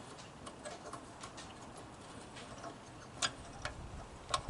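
Light, scattered clicks and taps of metal mower parts and hand tools being handled, with a few sharper clicks near the end.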